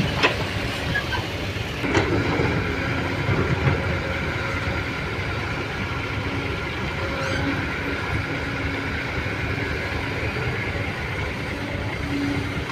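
Motor vehicle engine running steadily with a low rumble, with one sharp knock about two seconds in.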